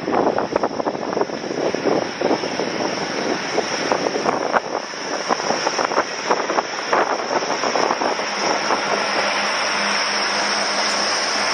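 A train running through the station, its wheels clattering on the rails with many irregular knocks, settling into a steadier running hum for the last couple of seconds.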